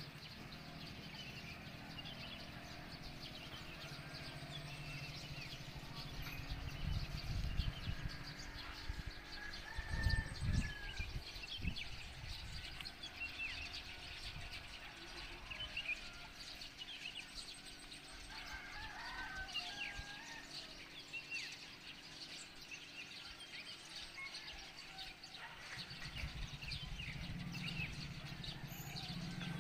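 Small birds chirping, many short high calls scattered throughout over faint outdoor background noise. Low rumbles break in around seven seconds, more strongly around ten seconds, and again near the end.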